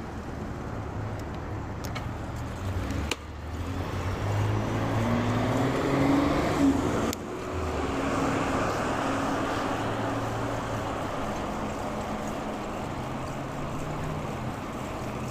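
A car's engine pulling away and passing close by, rising in pitch and loudest about six seconds in, then settling into steady road and wind noise.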